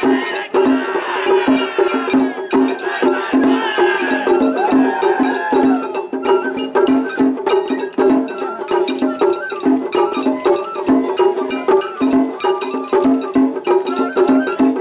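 Japanese festival hayashi played live: quick, steady taiko drum strokes with a bright metal gong and a bamboo flute over them.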